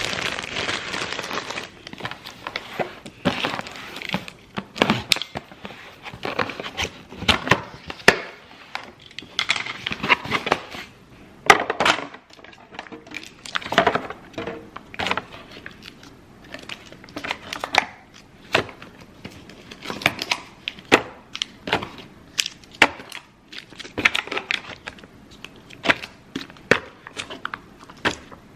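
Kitchen items being handled and put away, close up: a busy, irregular run of clicks, knocks and rustles from containers, lids and packaging being picked up, set down and opened.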